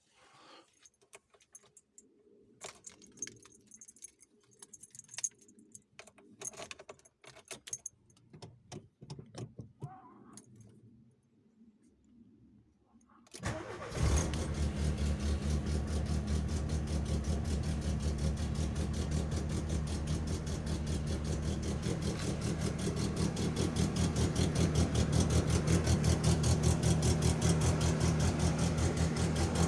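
Light clicks and rattles for about thirteen seconds, then the VW Golf Mk2 G60 Rallye's supercharged 1.8-litre four-cylinder engine cranks briefly and catches on a cold start. It settles into a steady, evenly pulsing idle that grows a little louder toward the end.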